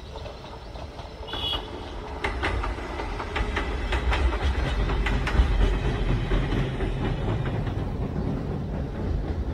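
Kintetsu electric train passing close by: a heavy rumble that builds to its loudest about halfway through and stays strong, with the clickety-clack of wheels striking the rail joints.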